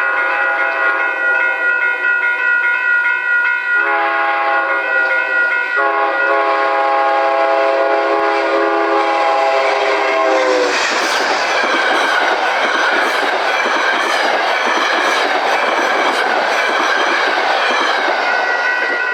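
A passing train's multi-note horn sounds in long blasts, with short breaks about four and six seconds in. Just past halfway the train rushes by with wheels clicking over the rail joints, and the horn sounds again near the end.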